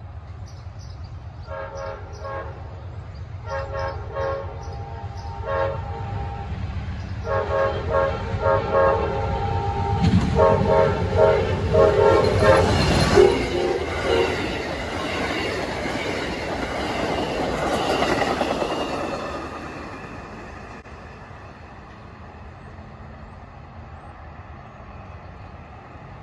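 Amtrak passenger train sounding its air horn in a series of blasts, mostly long, as it approaches, then passing close by with a deep rumble and the clack of wheels on the rails, fading away after about twenty seconds.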